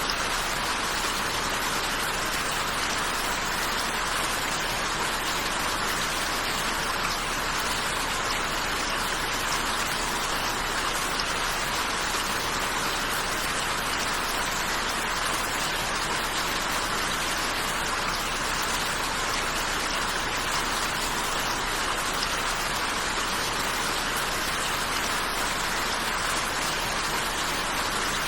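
Steady rainfall, an even hiss of drops hitting a surface that does not change in strength.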